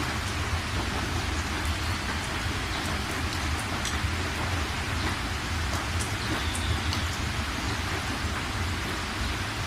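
Steady rain falling on a surface, with individual drops ticking here and there over a continuous low rumble.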